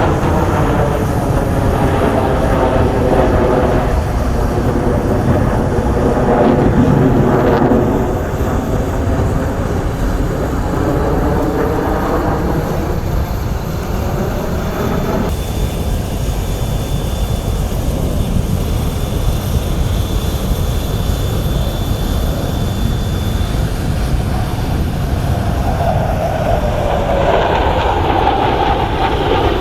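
Sukhoi Su-30SM fighter jets' turbofan engines in low passes, a loud steady rumble with a whining engine tone that glides downward as a jet goes by, once early on and again near the end.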